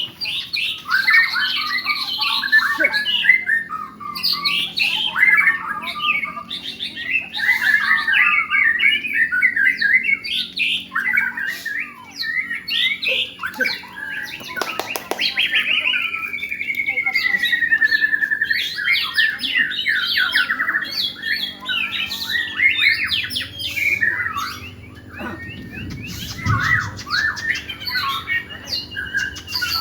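Many caged songbirds singing at once in a dense, overlapping chorus of chirps, trills and rapid phrases. About halfway through, one long whistle glides down and back up.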